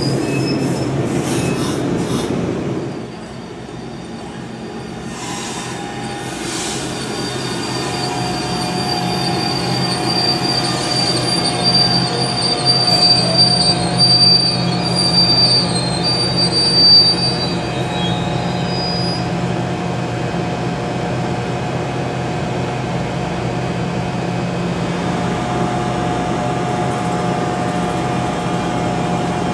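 NJ Transit Arrow III electric multiple-unit train rolling slowly through the station with a steady electric hum. A high-pitched wheel squeal sounds from about five seconds in until around seventeen seconds. The first few seconds hold a louder rumble that drops off suddenly.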